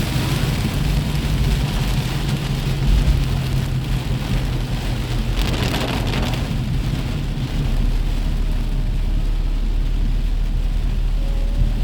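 Heavy rain pouring steadily, swelling louder for about a second around the middle, over a low steady hum.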